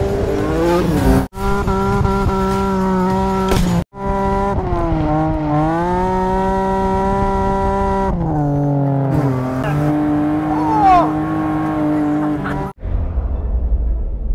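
Aston Martin DB5's straight-six engine running at high revs, its note holding steady, then dipping and climbing again as the car slides through corners, with a brief tyre squeal past the middle. The sound cuts off abruptly a few times.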